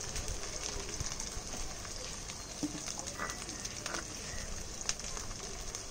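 Onion, ginger-garlic paste and ground spices frying in refined oil in a pan: a steady soft sizzle with a few light clicks.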